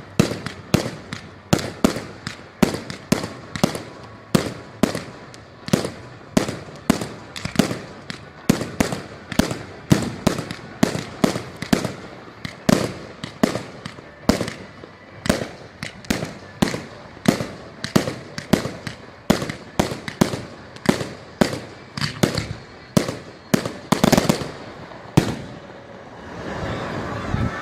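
Fireworks display going off: a rapid run of sharp bangs, about two a second, with a heavier cluster near the end before the bangs stop.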